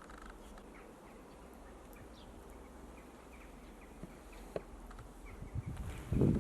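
Faint, scattered short chirps of European greenfinches at a feeder. Louder low thumps and rustling come near the end.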